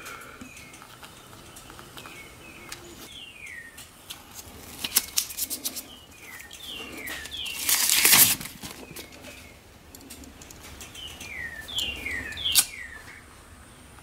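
Small birds singing: short falling whistled notes in quick groups, repeated several times. There is a quick run of clicks about five seconds in and a brief loud rustle about eight seconds in.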